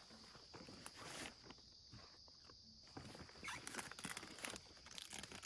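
Faint footsteps and rustling on the forest floor, with a few louder crackles in the second half.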